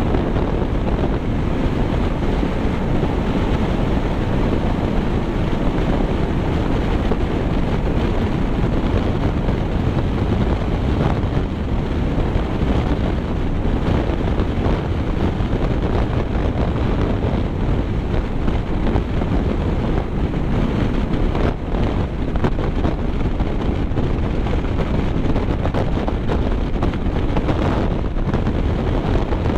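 Steady wind and road noise from a moving vehicle, with wind buffeting the microphone.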